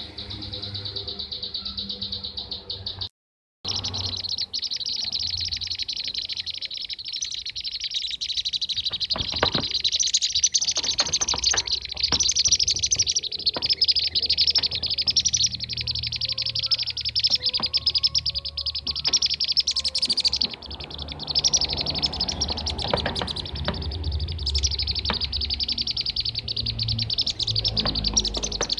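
Dense, continuous rapid chattering calls of bee-eaters (kirik-kirik), played as a bird-lure recording. The sound drops out completely for about half a second around three seconds in.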